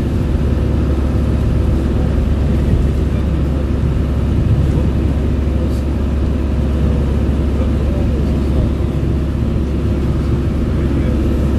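Steady low rumble of a car on the move, as heard from inside: road and engine noise.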